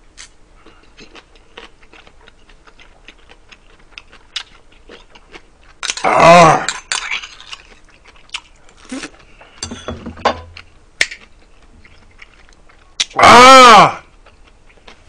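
Close-miked chewing and lip-smacking of a mouthful of rice mixed with braised pork rib, many small wet clicks. A loud satisfied "ah!" breaks in about six seconds in, and a longer one near the end.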